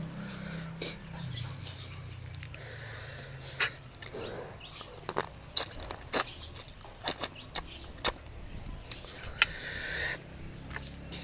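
Someone eating blue crab and seafood papaya salad close to the microphone: a string of sharp cracks and clicks as shell is bitten and picked, with two longer sucking slurps, about three seconds in and near the end.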